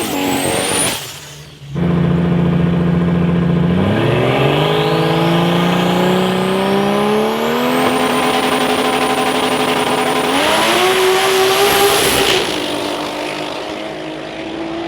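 Toyota 2JZ straight-six in a 1995 Nissan 240SX running on low boost, revving and accelerating with its pitch climbing in steps. A faint high whine rises with it, and the sound drops away briefly about a second in and again near the end.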